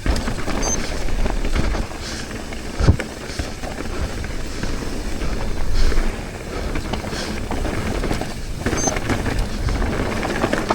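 Mountain bike ridden fast down a dirt singletrack: a steady rush of tyre and wind noise with rattling over the ground, and a sharp knock about three seconds in.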